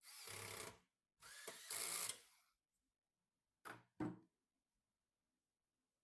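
A small power tool runs in two short bursts, the second longer, followed by two short noises.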